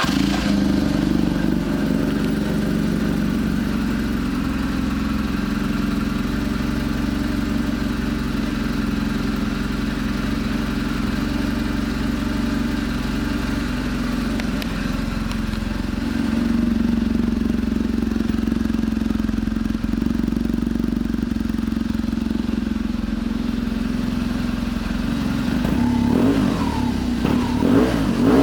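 2009 BMW R1200GS boxer-twin engine idling steadily just after being started, with a few quick throttle blips near the end.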